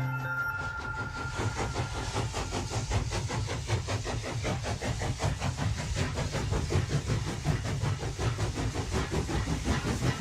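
Steam train running, with a rapid, even beat of knocks over a steady hiss.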